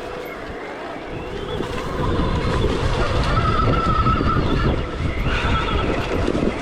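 Stark Varg EX electric dirt bike motor whining, its pitch rising and falling with the throttle. A low rumble gets louder about two seconds in.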